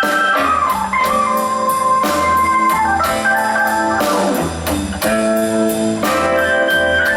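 Live blues band playing an instrumental passage: organ with guitar over bass and drums, keeping a steady beat.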